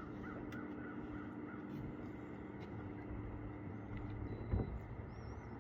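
Quiet outdoor ambience by a lake: a steady low hum, with a held tone that fades about four seconds in, and faint distant bird calls. A soft knock comes about four and a half seconds in.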